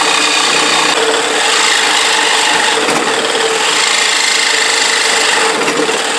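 Reciprocating saw (Sawzall) fitted with a metal-cutting blade, cutting steadily without a break.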